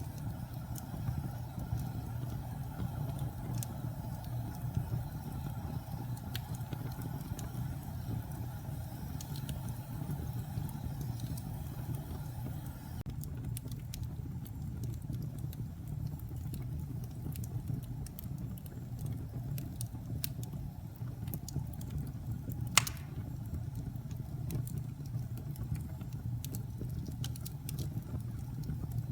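Wood fire in a fireplace crackling: scattered small pops and snaps over a steady low rumble, with one sharp, louder pop about three-quarters of the way in.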